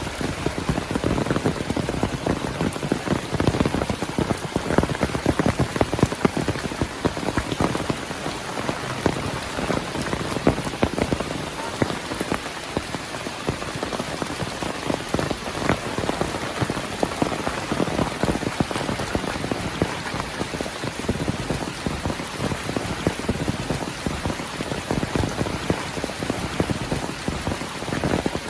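Heavy rain falling steadily, with a dense mass of close drop impacts striking surfaces.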